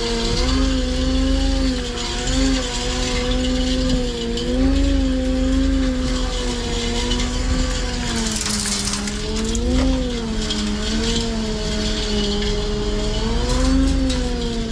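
Plow truck's engine running, its pitch drifting up and down as it drives and works, over a heavy low rumble. A brief hiss comes about eight seconds in.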